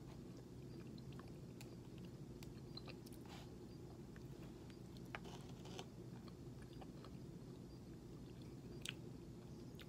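Faint chewing of canned tuna, with a few light clicks and scrapes of a plastic fork against the inside of the open tin can, over a steady low hum.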